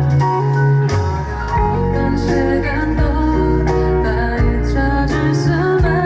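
Live performance of a slow song: guitar and bass with a woman singing.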